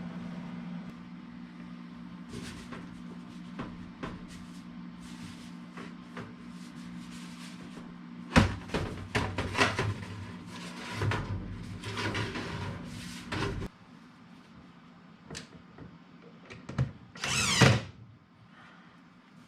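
Sheet-metal duct pipe being worked apart at its joint: metal clanking, rattling and scraping, with one loud scrape near the end. A steady low hum underneath stops about two-thirds of the way through.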